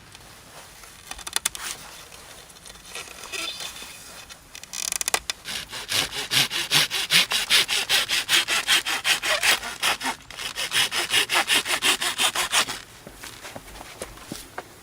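Hand saw cutting through wood in quick, even back-and-forth strokes, about four a second, with a short pause partway through before it stops. A few light knocks come before the sawing starts.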